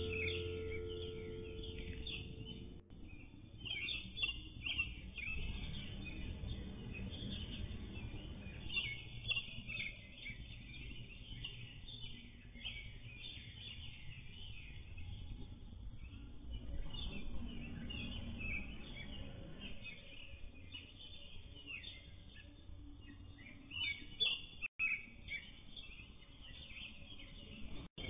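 Small birds chirping and twittering in short calls again and again, over a low background rumble.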